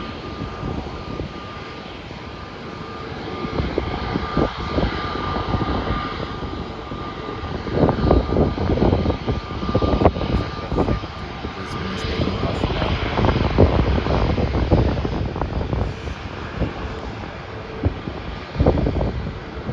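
Jet airliner engines running, a steady high whine for roughly the first twelve seconds over a rumble that swells in the middle, with wind gusting on the microphone.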